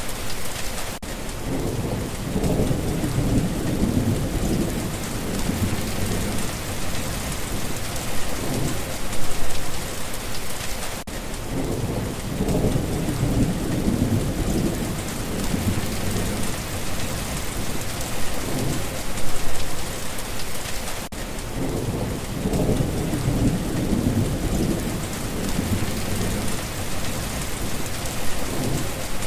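Steady rain with rolling thunder, the low rumble swelling and fading three times about ten seconds apart.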